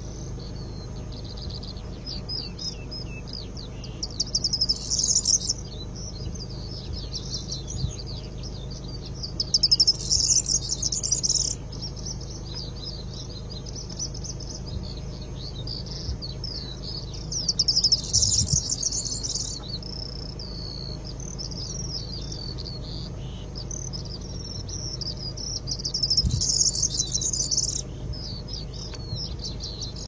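Corn bunting singing: four short song phrases, each about a second and a half to two seconds long, roughly every seven to eight seconds, over continuous fainter high twittering in the background.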